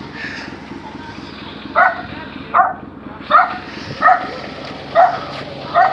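A dog barking repeatedly: about six short barks, evenly spaced less than a second apart, starting about two seconds in, over a steady background hum.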